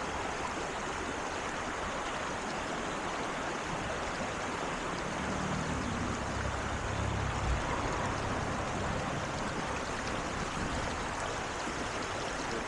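Creek water running steadily, an even rushing wash, with a faint low rumble partway through.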